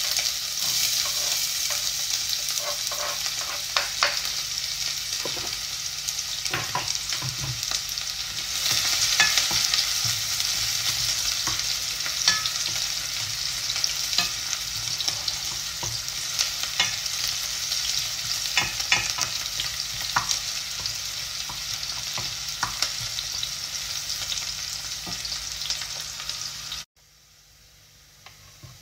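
Diced onions sizzling in hot oil in a pot, a steady frying hiss, with scattered clicks and knocks of a wooden spoon stirring and a knife on a wooden chopping board. The sizzle cuts off abruptly near the end.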